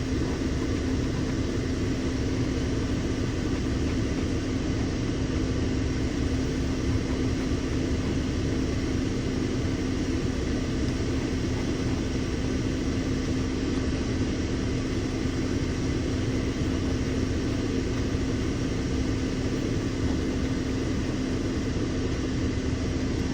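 A steady mechanical hum with one constant pitch over a broad rushing noise, unchanging throughout.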